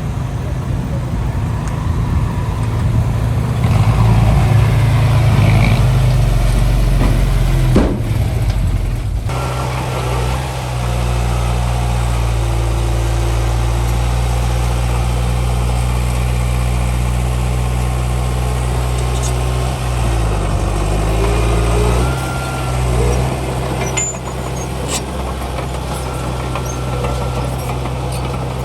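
Heavy diesel engines of earthmoving machinery running steadily at a low rumble. The engine note changes abruptly about nine seconds in, and dips and rises again around twenty seconds in.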